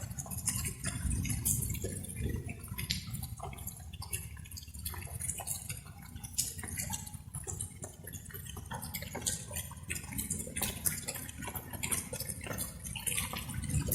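Light rain: raindrops dripping and falling in irregular, close-spaced drops, over a steady low rumble.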